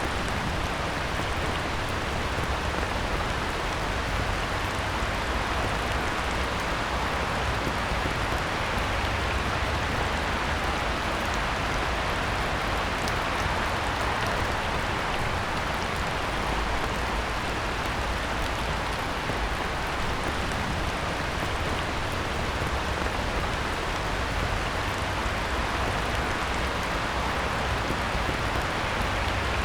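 Heavy rain falling steadily on a pond surface, an even unbroken hiss with a low rumble underneath.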